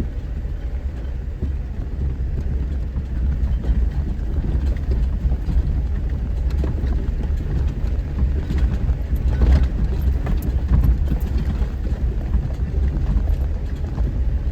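Jeep driving slowly over a rough dirt trail in four-wheel-drive high: a steady low engine and drivetrain rumble, with the vehicle rattling and knocking over bumps, the knocks thickest about two-thirds of the way through.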